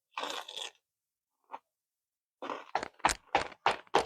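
Crunchy snack being chewed close to the microphone: a crunch near the start, then a run of sharp crunches about three a second from a little past the halfway point.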